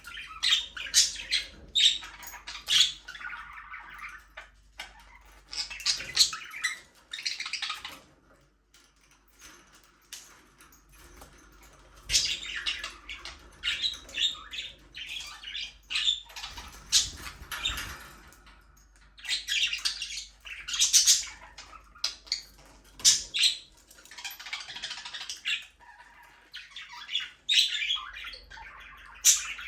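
Budgerigars chirping and chattering in bursts of quick high warbles and squawks, with a quieter lull about eight to twelve seconds in.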